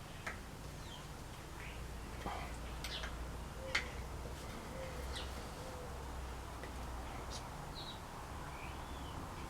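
Faint, scattered bird chirps over a steady low hum, with a few light clicks.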